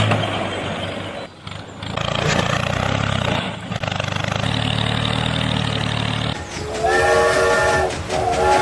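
Train running with a steady rumble, then sounding its multi-tone horn twice near the end, each blast held for about a second.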